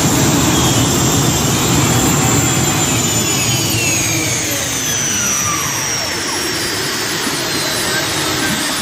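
Modified pulling tractor's engines running loud. A high whine starts falling steadily in pitch about three seconds in, as the machine winds down.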